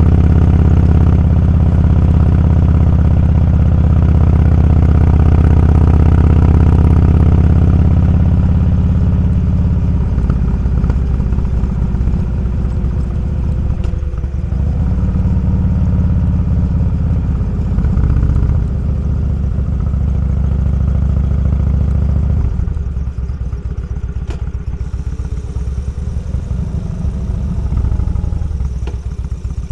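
Motorcycle engine running under way, steady and strong for the first third, then easing off into a slower, pulsing beat that drops lower again about 22 seconds in, as when the bike slows.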